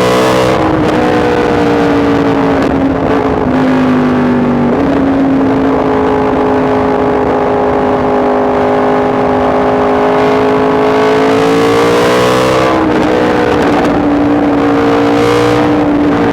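Yamaha MT-10 SP's crossplane inline-four engine running under way. Its pitch drops about three seconds in, climbs again about five seconds in, holds steady, then dips and rises once more near the end.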